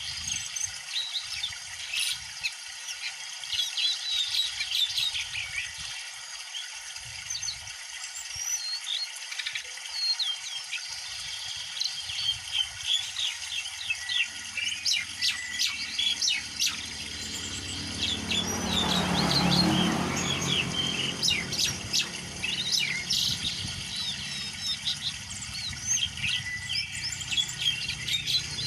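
Songbirds chirping and trilling in quick, high, overlapping notes over a steady hiss. A rush of noise swells and fades about two-thirds of the way through.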